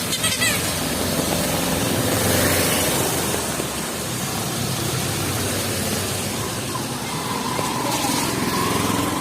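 A small engine vehicle running close by on a wet street, its hum loudest two to three seconds in, over a steady hiss of heavy rain and wet traffic.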